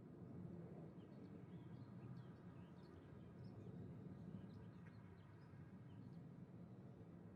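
Faint, rapid chirping of small birds over a low, steady background rumble, all very quiet.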